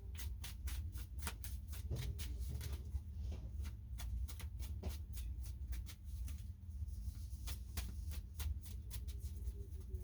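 Tarot cards being shuffled by hand: a quick, irregular run of light card clicks and snaps, over a steady low hum.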